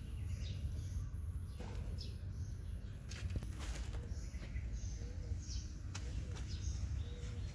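Small birds chirping in short, repeated high calls over a steady low rumble, with a few light clicks.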